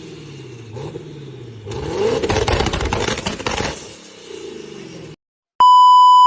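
Tuned car engine revving up and down with crackling pops from the exhaust, the revs swelling loudest in the middle, then cutting off abruptly. After a short silence a steady electronic beep tone sounds near the end.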